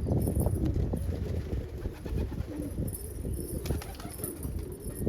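Domestic pigeons cooing in the loft, a low murmuring over a steady low rumble.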